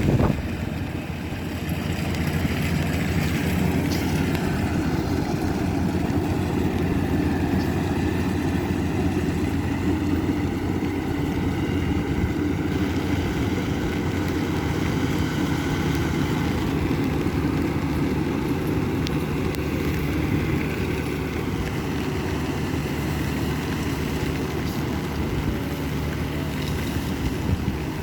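Rice combine harvester engine running steadily under load, with a constant low hum and mechanical drone.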